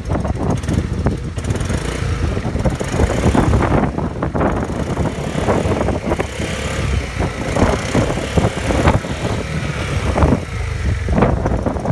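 Yamaha Maxam 250 scooter's single-cylinder engine running through an aftermarket Wirus Win exhaust, its level rising and falling unevenly.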